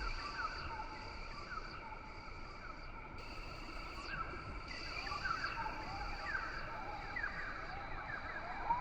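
Rainforest ambience: a steady, high insect drone under many short chirping calls scattered throughout.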